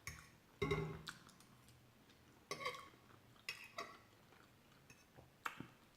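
Close-up eating sounds: a few short, separate mouth noises and small clicks from chewing food, spaced about a second or two apart.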